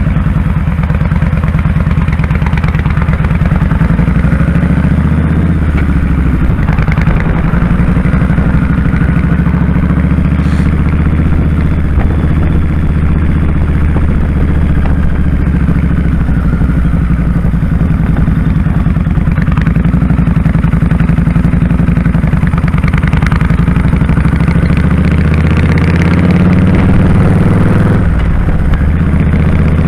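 2001 Kawasaki Drifter 1500's V-twin engine running steadily while the motorcycle is ridden, with a brief change in the engine note near the end.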